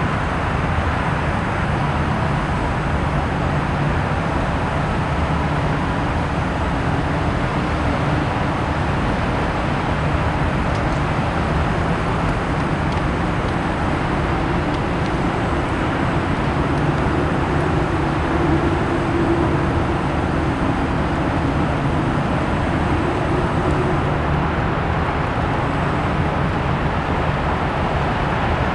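Steady outdoor rumble and hiss with a low hum underneath and no distinct events.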